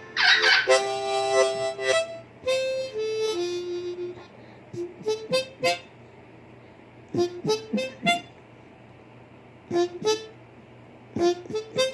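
Blues harmonica played in phrases: a few held chords at the start, then short bursts of quick notes broken by pauses.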